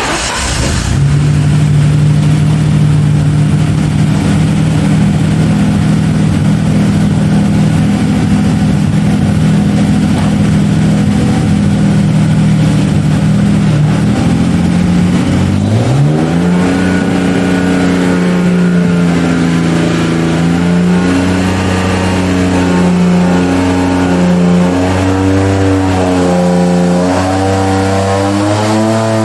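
BMW six-cylinder rally car engine running, now firing on all six cylinders after its hydraulic lifters were replaced. It holds a steady speed for about the first half, then is revved up and held at higher speeds, stepping up and down several times.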